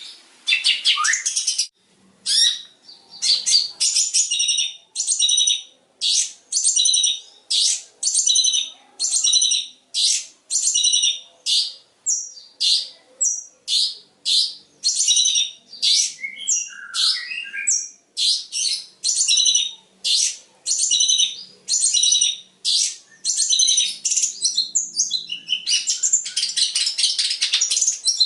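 Long-tailed shrike (cendet) singing a rapid string of short, sharp, high-pitched phrases, about one or two a second, mixing in mimicked calls of other birds such as sparrows. A denser, busier flurry of notes comes near the end.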